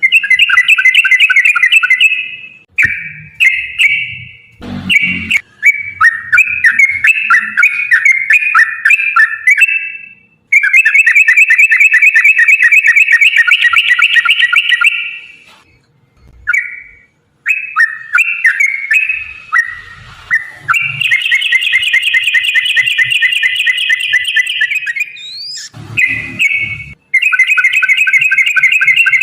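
Yellow-vented bulbul (trucukan) singing long, fast, bubbly chattering rolls of repeated notes in phrases several seconds long, with short pauses between them. A couple of low thumps are heard under the song.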